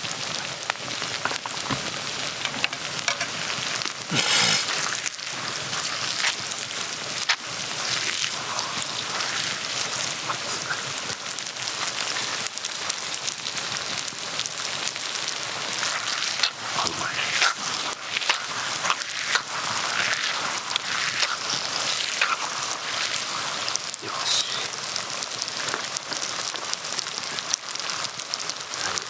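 Food sizzling in oil over a wood fire: a steady hiss full of small crackles, with one louder burst about four seconds in.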